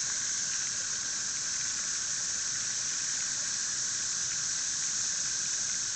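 A dense chorus of periodical cicadas: a steady, high-pitched hiss that holds without a break.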